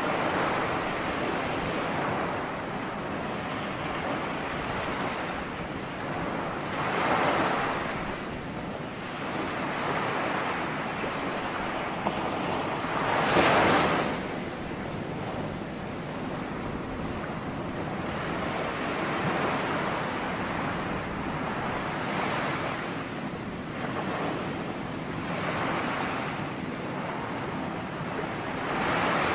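Ocean waves breaking on a shore: a continuous wash of surf, with a wave surging in every several seconds, the loudest about halfway through.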